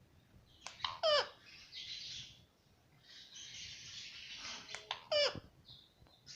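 Pet talking parrot calling: two sharp squawks that drop quickly in pitch, about a second in and again around five seconds, with softer raspy chattering between them.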